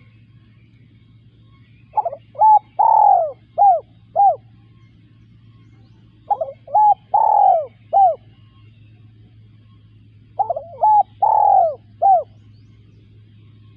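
Spotted dove cooing: three phrases about four seconds apart, each a quick run of five or six coos with one longer, falling coo in the middle.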